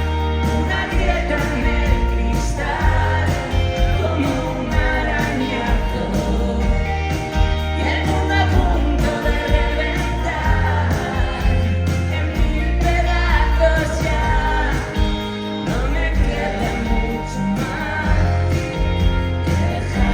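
Pop-rock song with a sung lead vocal over a full band, carried by a strong, moving bass line.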